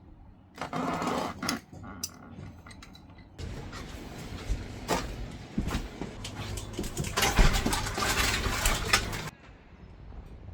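Clattering and knocking of hard parts being handled, likely the water filter housing and its UV light, with a louder stretch of rustling and sharp knocks from about three and a half seconds in that stops suddenly near the end.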